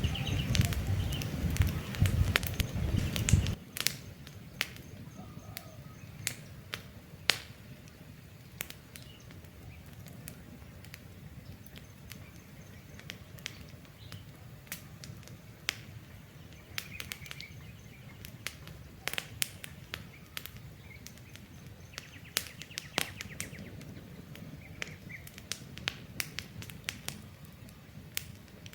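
Wood campfire crackling, with irregular sharp pops and snaps, while birds chirp faintly in the background. A louder low rumble fills the first few seconds and cuts off suddenly.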